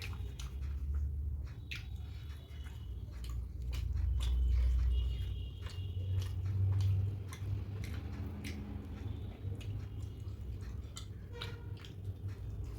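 Close-miked chewing and wet mouth clicks of someone eating soft poori with chana masala and aloo dum, with low rumbling swells a few times.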